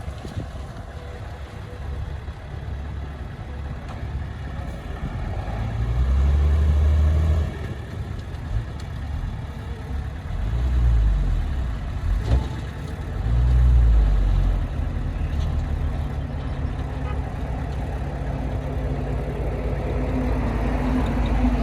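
Diesel engine of heavy earthmoving machinery running at a steady low rumble, swelling louder three times in the middle as it takes load, with a single sharp knock between the second and third swells.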